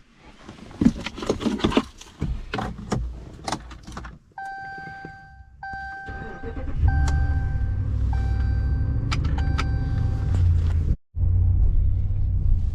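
Keys jangling and clicks of handling inside a car, then the car's warning chime sounding over and over. About seven seconds in the engine starts and settles into a steady idle.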